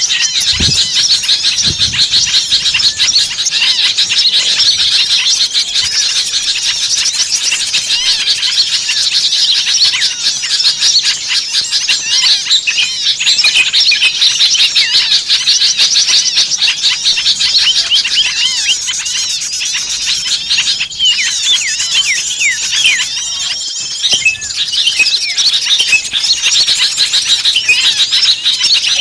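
A dense, agitated chorus of many small songbirds chirping and calling over one another without a break, as on a bird-luring recording of excited small birds. Rapid high chirps and short rising and falling whistles overlap the whole time, thinning slightly for a few seconds before briefly picking up again.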